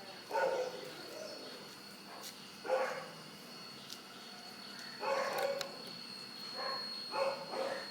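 A dog barking, about six separate barks at uneven intervals.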